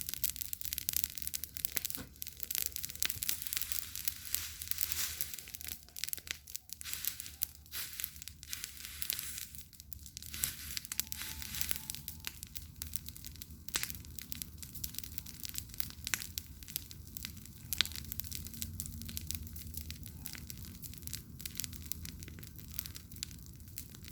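Wood bonfire crackling, with dense, irregular snaps and pops from the burning wood.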